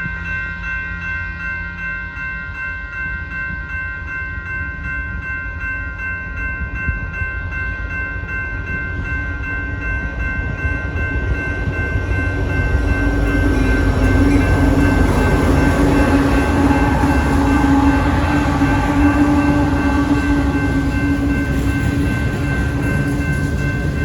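Railroad crossing bell ringing steadily as a train approaches and passes. Its rumble grows louder from about halfway through and peaks in the second half.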